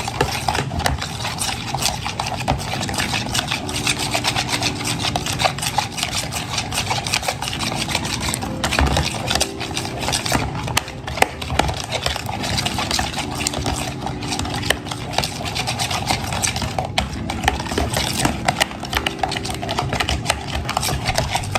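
Eggs and heavy cream being whisked by hand in a bowl: a rapid, continuous clicking and scraping of the whisk against the bowl.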